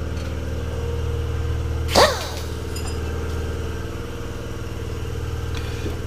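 Old air compressor running steadily with an even mechanical hum. About two seconds in there is one short, loud sound that falls sharply in pitch.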